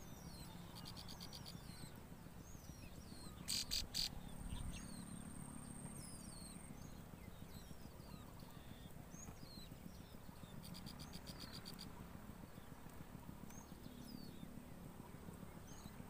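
Small birds chirping in short, falling notes, with two brief rapid trills. A cluster of three sharp knocks about three and a half seconds in is the loudest sound, followed by a thin steady high whistle for a couple of seconds.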